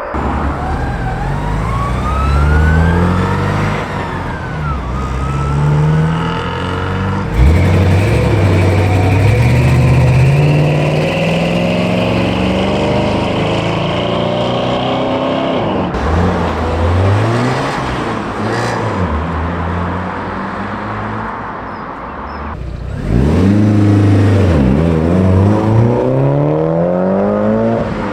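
Car engines pulling away and accelerating, revving up through the gears with the pitch rising and dropping at each change. There is a sudden louder surge about seven seconds in, and another near the end.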